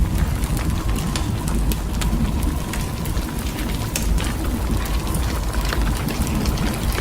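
Blizzard wind buffeting the microphone with a steady low rumble, while many small ticks of driven snow or ice strike close by.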